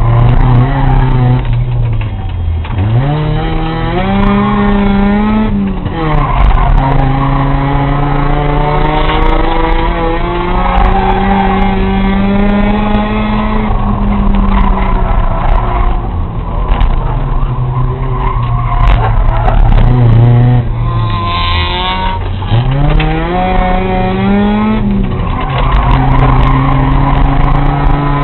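Race car engine at full throttle lapping a short track. Twice the revs fall sharply as the car slows into a turn, then climb back up and shift before holding high down the straight. The tyres squeal briefly in the second turn.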